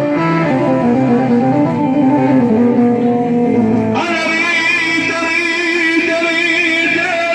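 Instrumental music from a live band playing between sung verses, with a melody line over a steady accompaniment; about four seconds in, a brighter, fuller part comes in.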